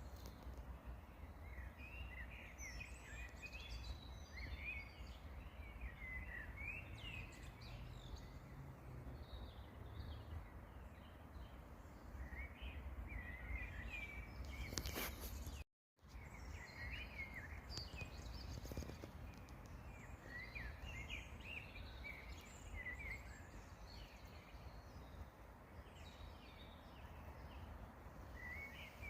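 Songbirds singing and chirping, many short overlapping calls, over a faint low rumble. The sound drops out completely for a moment a little past halfway.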